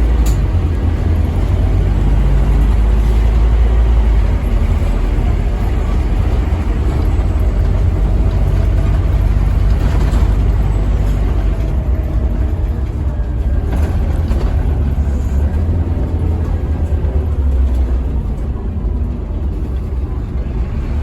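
A Scania N230UB OmniCity single-deck bus's diesel engine runs with a steady deep rumble, heard from on board, with a faint whine that drifts slightly in pitch. A few brief rattles or clicks come through, one just at the start and others about ten and fourteen seconds in.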